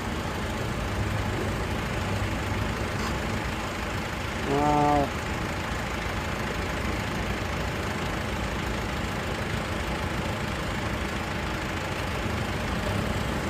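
Several tractor engines running together as a convoy of tractors pulls away, a steady, rough, knocking rumble.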